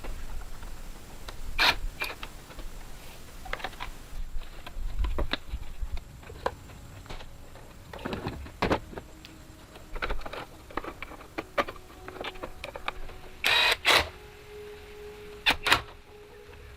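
Irregular metallic clicks, knocks and clatter of hand tools and parts during motorcycle repair work, with the loudest clatters coming in a cluster near the end.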